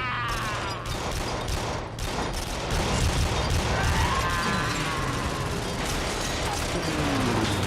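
Rapid anti-aircraft machine-gun fire in a naval battle, a dense run of shots, with a falling whistle about four seconds in.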